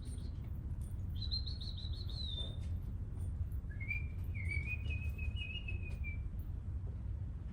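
A small wild songbird singing two short warbled phrases, the first higher and brief, the second lower and longer, over a steady low rumble.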